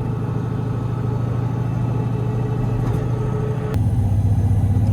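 Turbocharged LS V8 street truck engine running steadily while cruising, with a faint rising whine over its hum; about three and a half seconds in the sound changes suddenly to a deeper, stronger hum.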